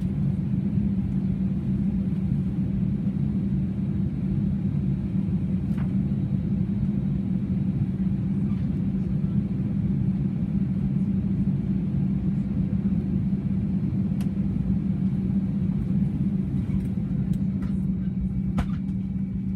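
Steady low hum inside an Airbus A320 cabin, with a constant low tone running throughout and a few faint clicks.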